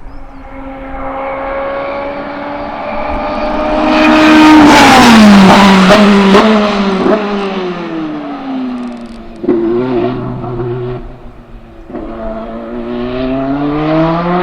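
BMW M Hybrid V8 prototype race car's twin-turbo V8 engine passing at speed. The note climbs and grows loud about four to six seconds in, then drops in steps through a series of downshifts. Near the end the engine note rises again under hard acceleration.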